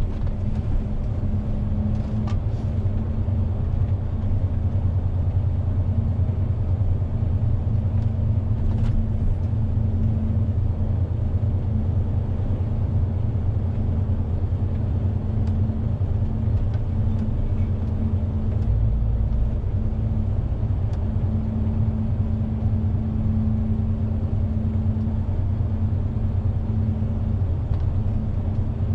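Heavy truck's diesel engine running as the truck drives, heard from the cab: a steady low rumble with a constant hum. The deepest part of the rumble gets louder about two-thirds of the way through.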